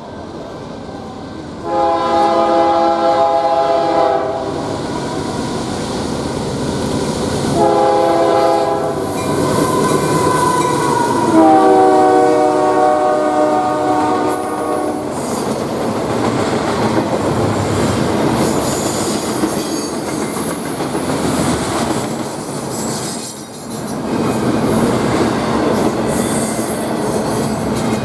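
Train air horn sounding a chord in three blasts: a long one, a shorter one, then the longest. Under it runs the rumble of the train rolling past, with wheels clattering over the rail joints, and this goes on after the horn stops.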